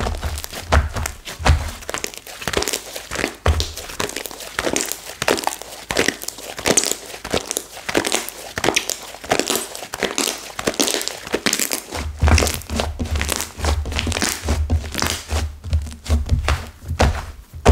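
Flora slime (slime mixed with clay) whose clay has hardened stiff, being squeezed and pressed by hand: a dense, irregular crackling and crunching, with low thuds against the surface beneath it in places, more of them in the last few seconds.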